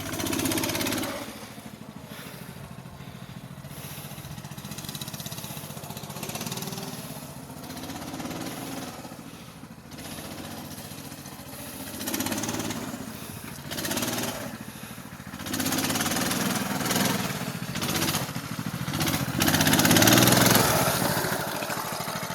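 Coleman minibike's small single-cylinder four-stroke engine running, its sound swelling and falling several times, loudest near the end.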